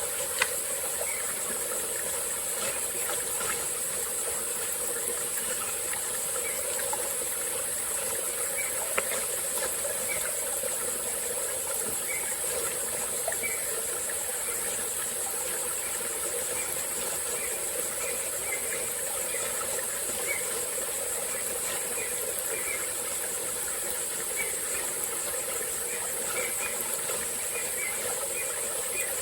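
Small tropical-forest stream running steadily under a constant high-pitched insect drone, with short chirps repeating throughout. A single sharp click sounds about half a second in.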